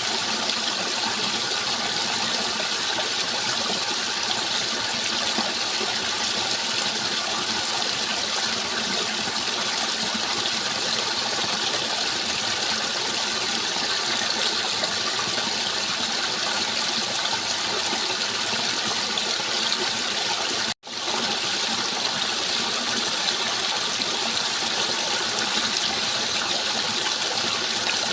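Steady rushing water, an even, unbroken wash of sound. It cuts out for an instant about three-quarters of the way through and comes straight back.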